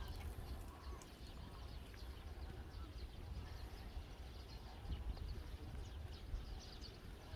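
Wind rumbling on the microphone, with scattered short, high calls of wetland birds.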